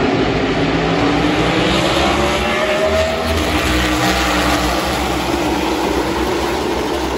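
NASCAR race engines at speed on the track: a dense, steady engine din, with one engine's note rising faintly about halfway through.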